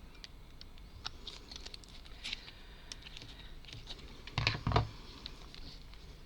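Light clicks and taps from small wooden model parts and tools being handled on a tabletop, with two louder knocks about four and a half seconds in.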